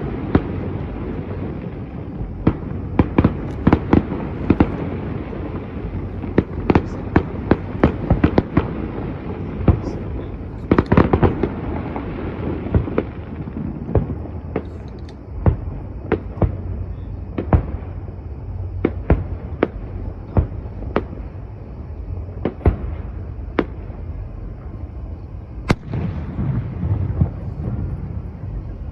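Fireworks display: a rapid string of sharp bangs over a steady rumble, densest around the middle, then thinning to single bangs about a second apart, with one sharp crack near the end.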